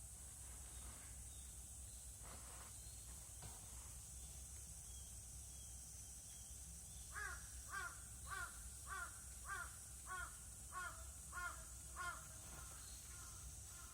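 A crow cawing in a quick series of about nine harsh calls, roughly one every 0.6 seconds, starting about halfway through. A few fainter caws trail off near the end.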